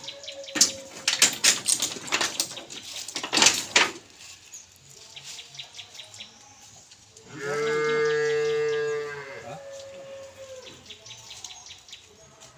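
A cow mooing once: one long call of about two seconds, starting about seven seconds in. Before it, in the first four seconds, comes a run of sharp knocks and clatter.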